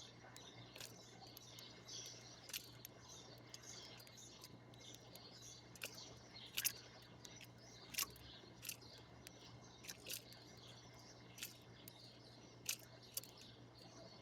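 Small birds chirping and calling, with many short, sharp clicks scattered irregularly throughout.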